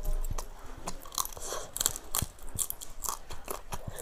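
A person chewing and crunching food close to the microphone: a string of irregular, crisp crunches and mouth clicks.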